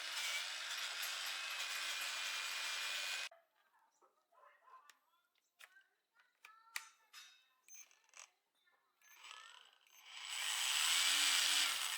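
A small power tool runs with a steady whine and shuts off abruptly about three seconds in. Several seconds of light clicks and knocks from tools and parts being handled follow. Near the end the power tool runs again briefly, its pitch rising then falling as it spins up and down.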